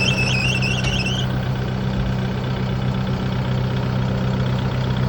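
Kubota broom tractor's diesel engine idling steadily. For about the first second, a rapid high-pitched chirping squeak repeats several times a second over it.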